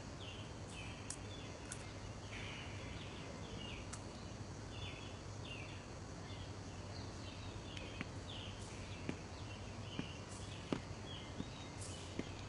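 Quiet ambience of repeated short bird chirps, about two a second, over a steady low hum. A few light ticks like footsteps come in the second half.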